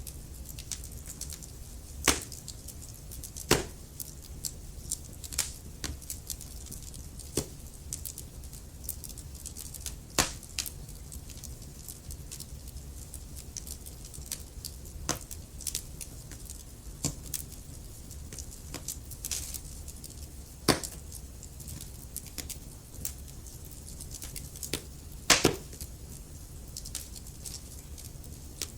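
Wood logs burning in a fireplace, crackling with irregular sharp pops over a low, steady rumble of flame. A handful of louder pops stand out among the smaller crackles.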